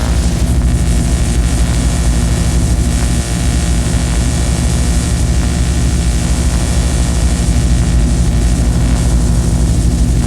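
Harsh noise music: a loud, dense wall of hiss over a steady low drone, with a brief dip about three seconds in.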